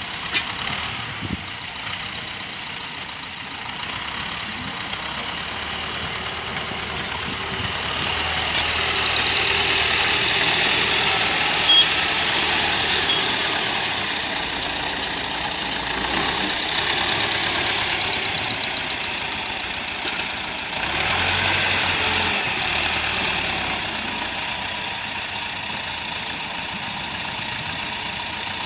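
T-40 wheeled tractor's diesel engine running, its note rising and falling as the load changes, with one sharp click about twelve seconds in.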